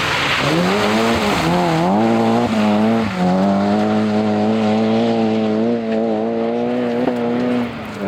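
A historic rally car's engine accelerating hard: the revs climb, dip at a gear change and climb again, then hold steady at high revs for several seconds before lifting briefly near the end.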